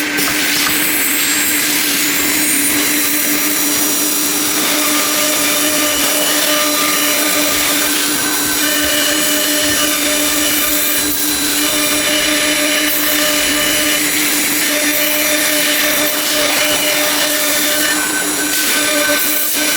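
1530 ATC CNC router running under test: a steady, high-pitched machine whine with a hiss, and shorter higher tones that come and go every second or two.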